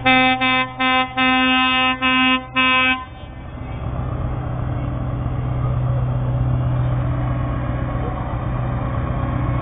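Lorry air horn sounding a single steady note in about six blasts over the first three seconds, then a steady low rumble of truck engines.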